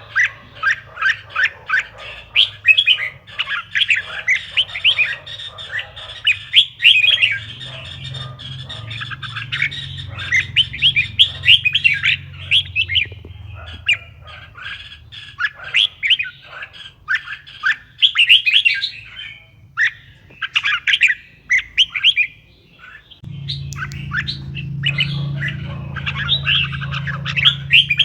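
Red-whiskered bulbul song: quick runs of chirping, warbling notes with short pauses between phrases. A low steady hum runs underneath and gets louder about 23 seconds in.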